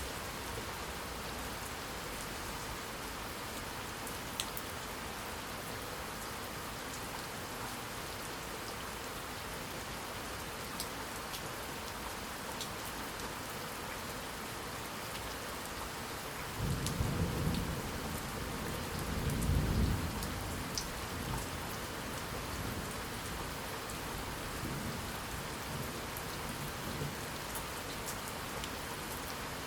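Steady rain falling, with a low roll of thunder rumbling up about two-thirds of the way through, peaking and dying away over about four seconds. A few louder individual drops tick here and there.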